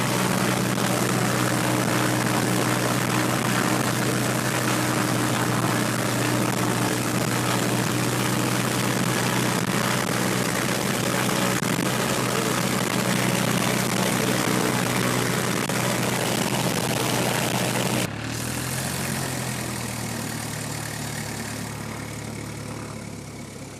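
Cessna 172P's four-cylinder Lycoming engine and propeller running steadily. About 18 seconds in the sound drops abruptly to a quieter, lower engine note that slowly fades.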